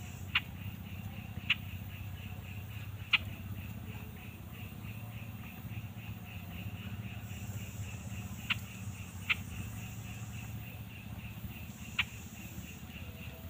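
A bird giving six short, sharp calls at irregular intervals, over a steady, rapidly pulsing high insect trill and a low hum.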